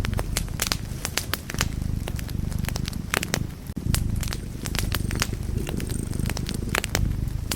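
Wood fire burning in a fireplace: a steady low rumble of flame with many sharp crackles and pops at irregular intervals.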